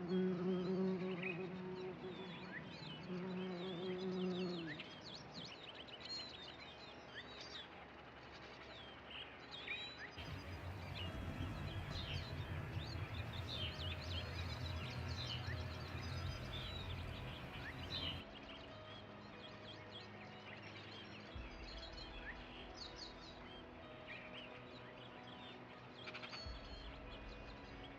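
Many birds chirping and calling. A low steady hum runs under them for the first few seconds, and a low rumble comes in through the middle.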